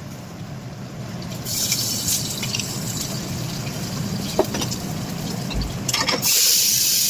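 Kachoris deep-frying in hot oil, sizzling with scattered crackles. The sizzle swells about one and a half seconds in and is loudest near the end.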